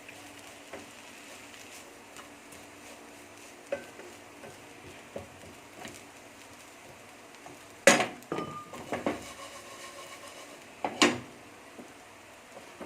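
A metal utensil stirring and scraping in a frying pan, with scattered light clinks and two sharp knocks against the pan, one about eight seconds in and another about three seconds later.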